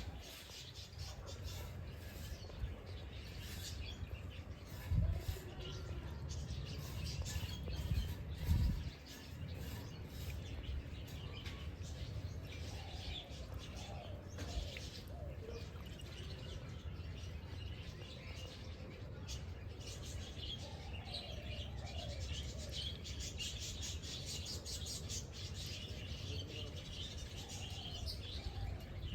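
Small birds chirping and twittering continuously, many short high calls overlapping, over a steady low rumble. Two dull thumps stand out about five and eight and a half seconds in.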